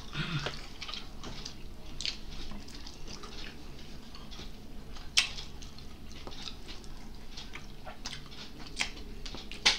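Eating sounds: a person chewing boiled sweet potato tops, with scattered short, sharp mouth clicks.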